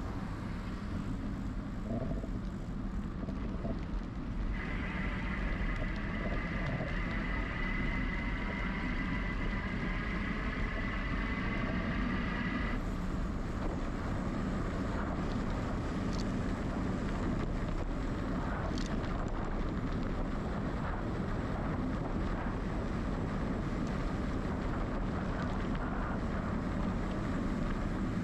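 Wind buffeting the microphone and a steady low rumble from riding a bicycle. A high, steady whine joins about four seconds in and cuts off suddenly about halfway through.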